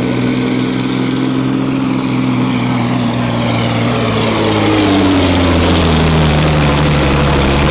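Semi truck's diesel engine running steadily; its pitch drops about halfway through and it grows a little louder.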